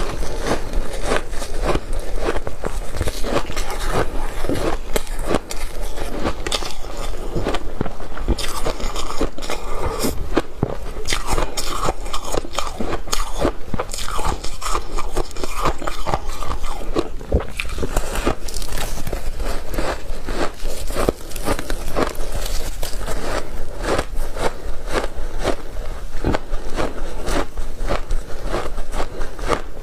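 Ice being bitten and chewed in big bites, a continuous run of crunching and cracking.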